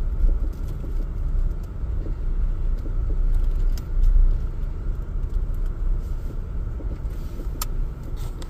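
Wind buffeting the microphone: a low, uneven rumble that swells and fades, with a few faint clicks near the end.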